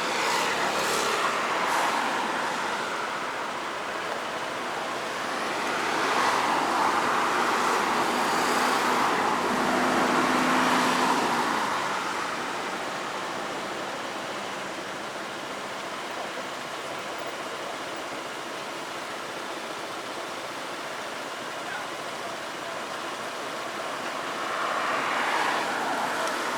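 Road traffic noise: vehicles passing by, each swelling and fading, a few times over a steady road hum.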